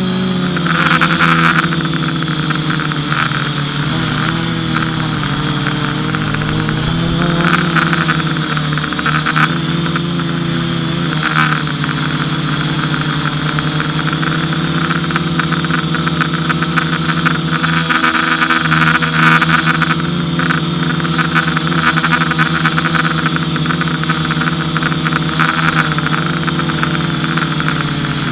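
FPV racing quadcopter's brushless motors and propellers buzzing in flight. The pitch rises and falls with the throttle in the first ten seconds, then holds steadier.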